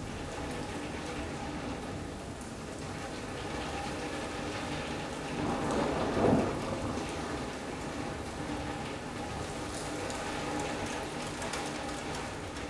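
Steady rain from a squall-line thunderstorm, with a short clap of thunder about halfway through that swells and dies away within a second or two.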